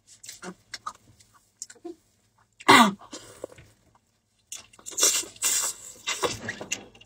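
Close-up eating sounds of meat bitten and sucked off the bone: small wet smacks and clicks of lips and chewing, a short vocal sound that drops in pitch about three seconds in, then a longer stretch of noisy chewing and sucking near the end.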